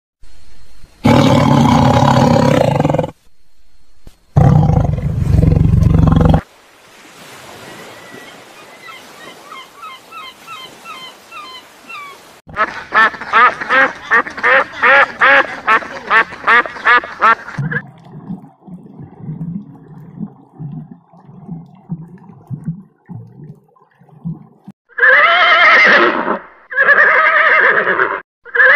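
A string of different animal calls, one after another: two long loud calls, faint bird chirping, a rapid run of repeated calls and low grunts, then a horse whinnying several times near the end.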